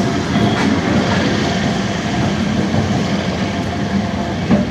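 A MEMU electric multiple-unit train running, a steady rumble of wheels and coach. A sharp click or knock comes near the end.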